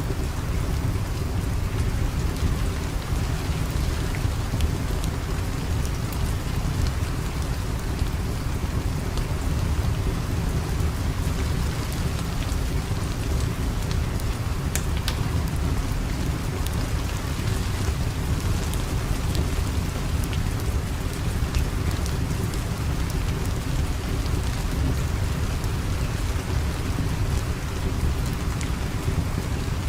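Steady rain falling, an even unbroken wash with a deep low rumble underneath and scattered faint crackles.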